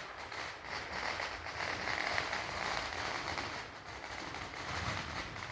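Steady outdoor hiss with faint crackles and pops of distant fireworks.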